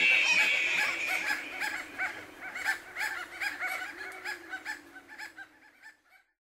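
Birds calling over and over in short, quick calls, fading out to silence a little before the end.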